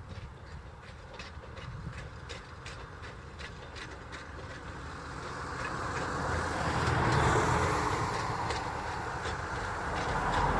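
A train running on the rails, its wheels clicking over the rail joints, growing louder to a peak about seven seconds in as it comes close past.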